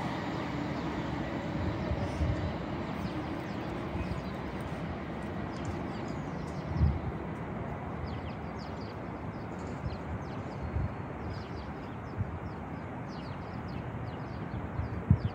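Low, steady rumble of a train running far down the main line, with small birds chirping now and then in the second half and a brief low thump about halfway through.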